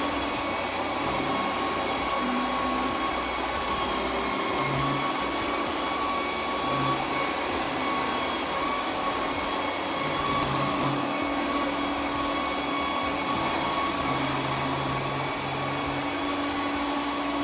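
Roborock Q10V+ robot vacuum running steadily with its suction on, a whir with a faint steady whine, and short low hums coming and going throughout.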